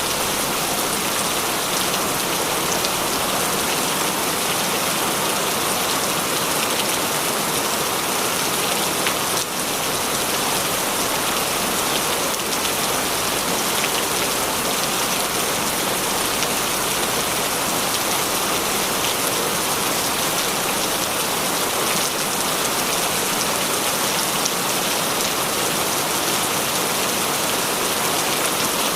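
Steady heavy rainfall: a dense, even hiss of rain on surfaces with scattered individual drop ticks.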